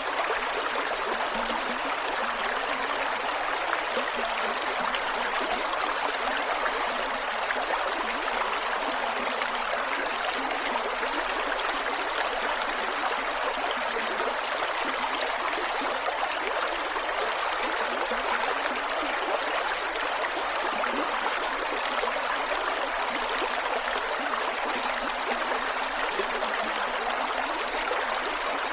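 Creek water flowing over rocks, running and gurgling steadily.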